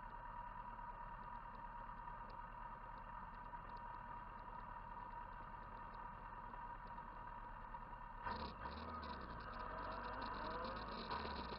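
Faint motorcycle engine running steadily; about eight seconds in, louder engine noise comes in, its pitch rising and falling.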